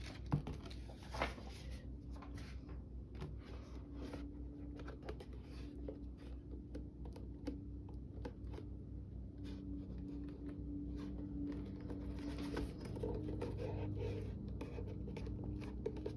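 Small handling sounds of paper crafting: paper being moved and rubbed, with scattered light clicks and scratches, over a steady low hum.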